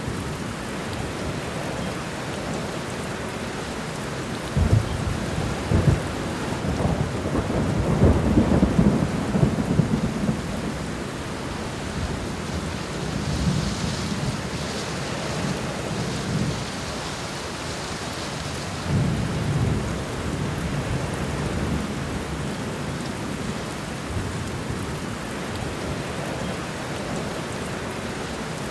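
Thunderstorm: steady rain falling, with thunder rolling in low rumbles that start about four seconds in, peak around eight to ten seconds, and return more softly about twenty seconds in.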